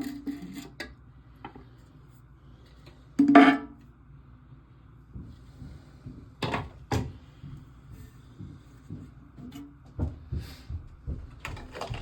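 Clicks and knocks of plastic toilet-tank parts and fittings being handled and fitted together. The loudest is a single clunk about three seconds in.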